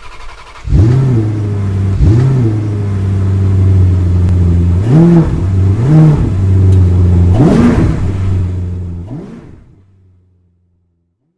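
A car engine idling with five short throttle blips, the revs rising and falling each time. It fades away near the end.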